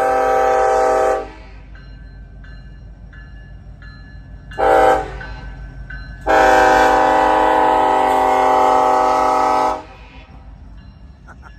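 Kansas City Southern locomotive air horn sounding: a long blast ending about a second in, a short blast, then a long blast of about three and a half seconds. Between the blasts the passing train rumbles low.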